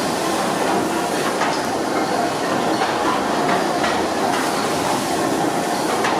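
Steam engine running: a steady hiss with light mechanical clatter.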